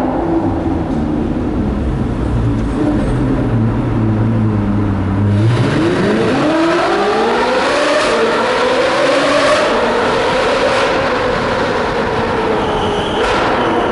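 Ferrari 458 Speciale's naturally aspirated V8 through straight-pipe exhaust, running at low revs at first. Then, about five seconds in, the engine goes to full throttle: a fast rising rev, followed by several sharp exhaust cracks at the upshifts as it keeps pulling hard.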